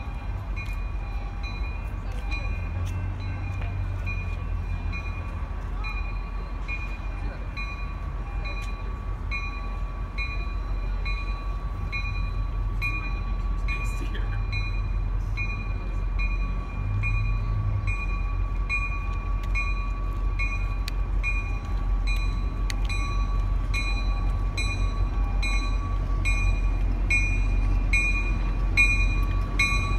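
A diesel commuter-train locomotive approaching, its low rumble growing louder near the end. A warning bell rings steadily, a little more than once a second, throughout.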